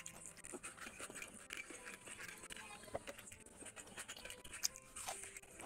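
Close-up chewing of rice and curry eaten by hand, with many short wet mouth smacks and clicks and one sharper click near the end.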